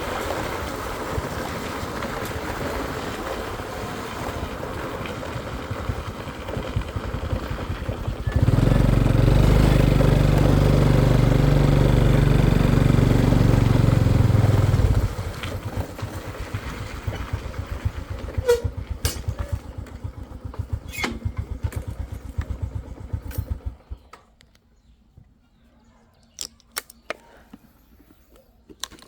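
Motorcycle engine running steadily. It gets much louder for several seconds, then settles back and is switched off about three-quarters of the way through. A few sharp clicks and knocks follow.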